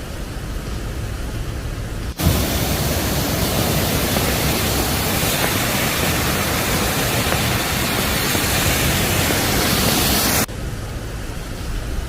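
Rushing water of a small waterfall: a steady hiss that jumps much louder about two seconds in and drops back sharply near the end, with wind rumbling on the microphone underneath.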